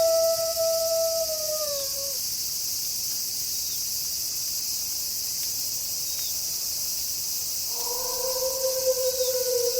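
Wolf howling: one long, level howl drops in pitch and ends about two seconds in, and a second, slightly lower howl begins near the end and is held. A steady high-pitched hiss of night insects runs underneath.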